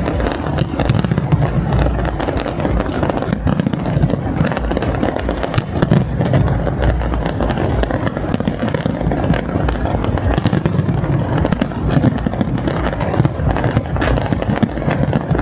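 Large fireworks display going off in a dense, unbroken barrage of bangs and crackles with deep booming.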